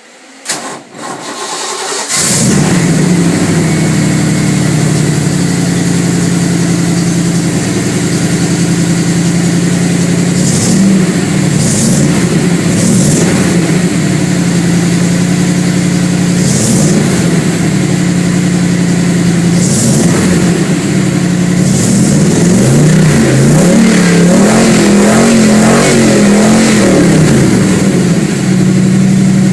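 Cold start of a Ford 302 small-block V8 breathing through headers: the starter cranks for about two seconds and the engine fires right up, then runs loud and steady at idle. The revs are blipped a few times, and rise and fall repeatedly near the end.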